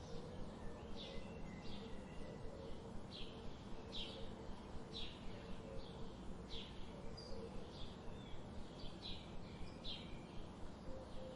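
Wild birds chirping, with short high calls repeating every second or so over steady background noise.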